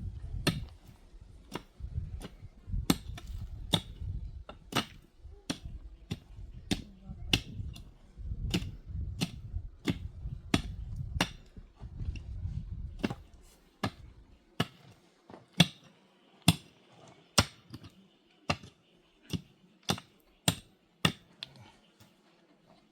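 Repeated hard strikes of a tool on wood, like chopping or driving in canopy poles, with a sharp crack at each blow. The blows come about two a second at first, then about one a second from about 14 seconds in. A low rumble under them stops about 13 seconds in.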